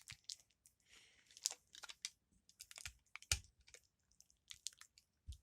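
A toy candy box being opened by hand: scattered light clicks, taps and crinkles of the packaging, with one sharper snap about three seconds in.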